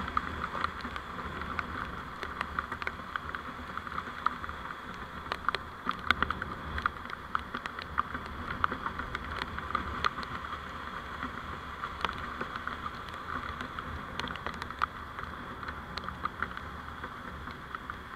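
Steady vehicle driving noise picked up by a dashcam microphone, with many small ticks and crackles scattered through it.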